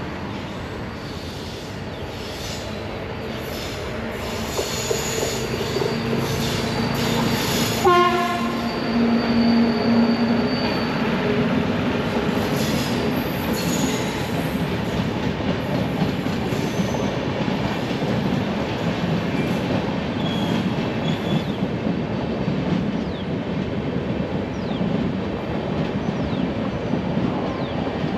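Train approaching and running past on the track, the wheel rumble and clatter growing louder over the first eight seconds or so. Its horn sounds for about two seconds, eight seconds in. The rumble of the passing coaches then runs on steadily.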